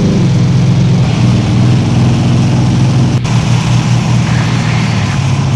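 V8 engine running under steady load at nearly constant revs, a deep exhaust drone over road noise. The pitch settles slightly lower at the start, and there is a brief break about three seconds in.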